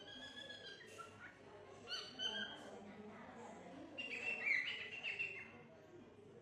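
A parrot calling in short high whistles and chirps, some falling in pitch, with the loudest run about four to five seconds in.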